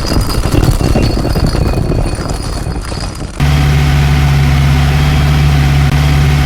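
A loud, rough, rattling noise for about three seconds, then a car engine running at a steady idle.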